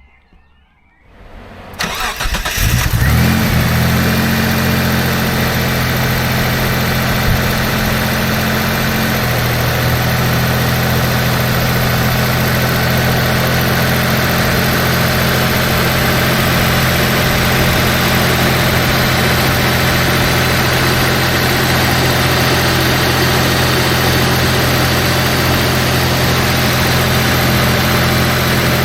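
Mitsubishi GTO Twin Turbo's 3.0-litre twin-turbo V6 starting up about two seconds in. It holds a higher idle, then settles to a lower, steady idle about nine seconds in.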